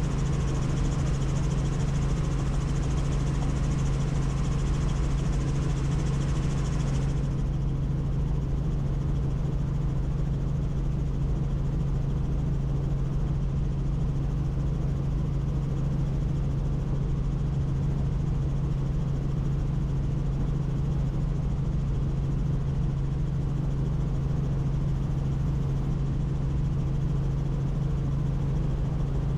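Helicopter in flight heard from on board: a steady drone of rotor and engine with a strong, even low hum. A hiss above the drone cuts out about seven seconds in.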